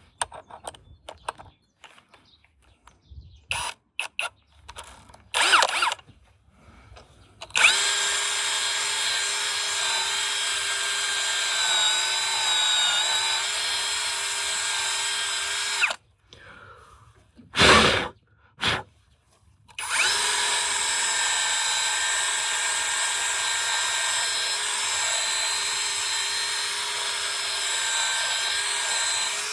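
Handheld electric drill running at a steady speed in two long runs, the first about eight seconds long and the second starting about twenty seconds in. Two short bursts come between the runs, and before the first run there are scattered clicks and knocks of tools and parts being handled.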